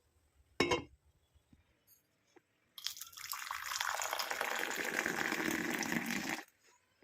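Hot masala tea being poured into a cup: a steady stream of liquid for about three and a half seconds that cuts off sharply. A short clink of crockery comes about half a second in.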